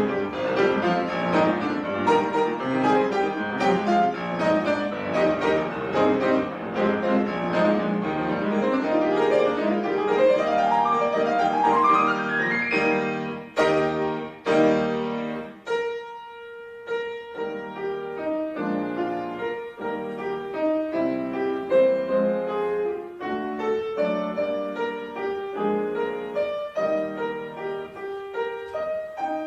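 Piano playing: a dense, flowing passage with a fast rising run about nine seconds in, a short break a little past halfway, then a steadier stream of evenly struck notes.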